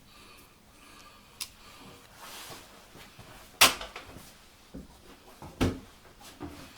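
Knocks and clunks of metal parts being handled while a wood lathe is set up: a light click, a short scrape, then two sharp clunks about two seconds apart, the first the loudest, with a few small taps near the end.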